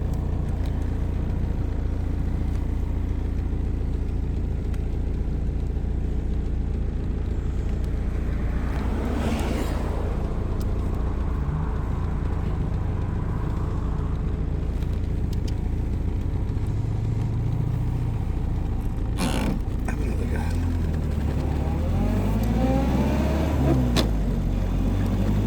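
Car engine and road noise heard from inside the cabin while driving: a steady low drone, with a single sharp knock about three-quarters of the way through.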